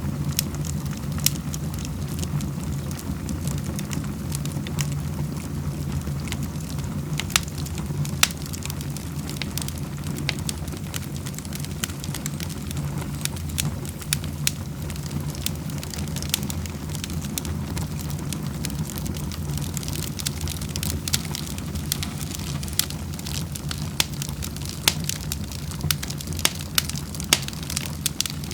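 Wood fire burning in a fireplace: a steady low rumble of flames with scattered sharp crackles and pops, more frequent near the end.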